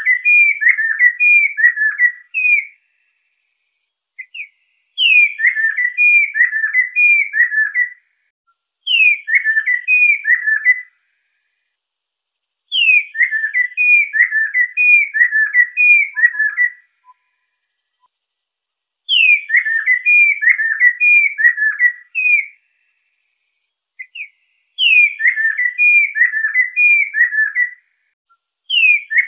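Lesser necklaced laughingthrush singing: about six phrases, each opening with a high falling whistle and running into a quick string of descending whistled notes, with pauses of a second or two between phrases.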